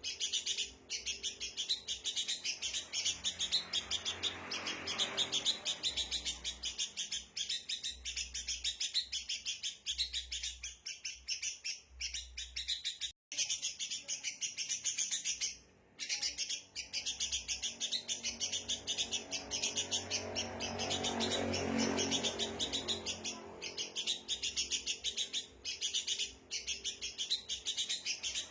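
Sooty-headed bulbuls giving agitated alarm chatter: rapid, high, repeated chirps without pause, broken only briefly twice near the middle. A faint low rumble swells and fades twice beneath the calls.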